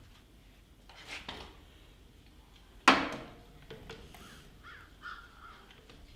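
American crows cawing several times, with a single sharp knock about three seconds in that is the loudest sound.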